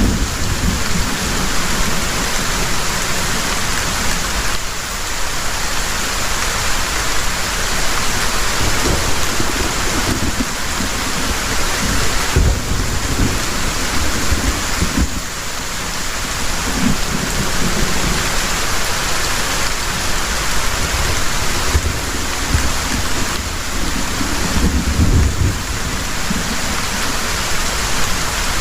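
Heavy rain pouring steadily, with low rumbles of thunder rolling in several times underneath.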